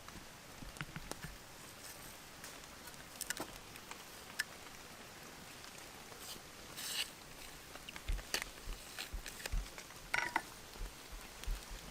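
Sparse light clicks and taps of hands handling food and utensils during cooking prep, coming more often, with soft low thumps, in the last few seconds.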